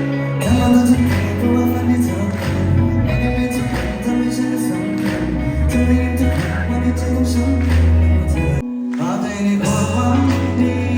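Thai indie band playing live with vocals, bass and drums, recorded from the audience. The music cuts out for a moment about three-quarters of the way through, then picks up again.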